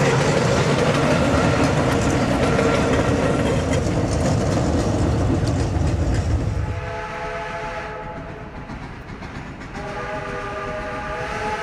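Duluth & Northeastern No. 28, a 1906 ALCO 2-8-0 steam locomotive, and its train rolling past with a loud, steady rumble for about six seconds. As the rumble fades, the locomotive's steam whistle sounds a chord of several notes in two blasts, a short one and then a longer one that starts near the end.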